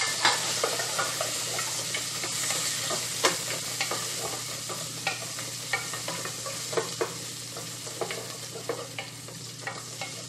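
Ginger, garlic and whole spices sizzling in hot olive oil in a metal pot, with a wooden spoon stirring them and knocking against the pot's sides and bottom at irregular moments.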